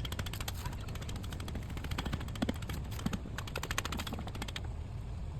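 Rapid, evenly spaced mechanical clicking that stops about four and a half seconds in, over a steady low rumble.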